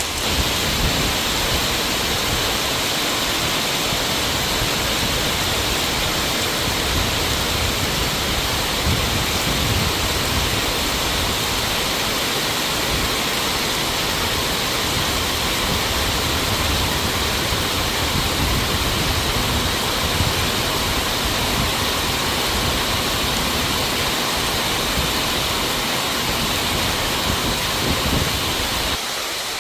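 Heavy rain pouring down steadily, an even, unbroken hiss of downpour.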